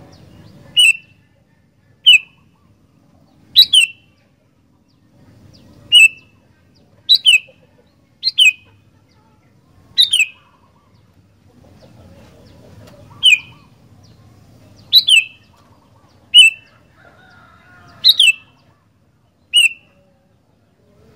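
Sooty-headed bulbul (kutilang) calling: about fourteen short, sharp notes, each sliding quickly downward, repeated every second or two.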